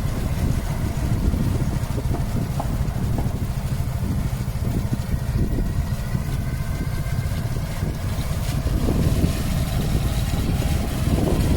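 Speedboat under way: its engine runs at a steady drone under a heavy, continuous low rumble.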